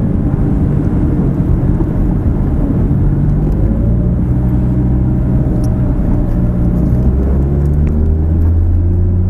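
Lamborghini Gallardo's V10 engine running at low speed, heard from inside the cabin as a steady low engine note. The note gets fuller about seven seconds in as the car picks up a little speed.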